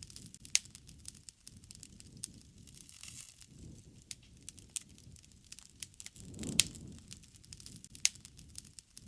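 Wood fire crackling: irregular sharp pops and snaps over a low rumble of burning, with a swell of burning a little past the middle.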